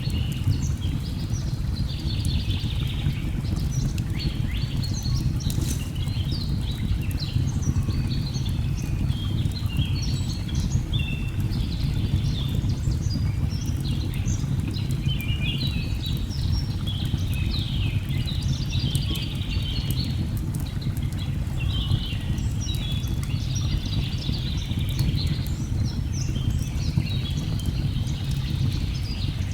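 Many birds chirping and calling over a steady low rush of falling water, with a few sharp crackles from a burning fire.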